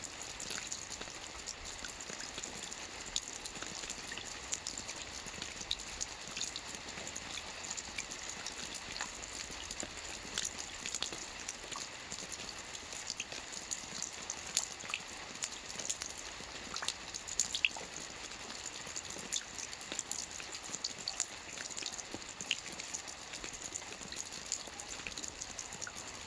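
Soft rain falling on a roof: a steady, even patter of many drops, with single louder drops ticking out here and there.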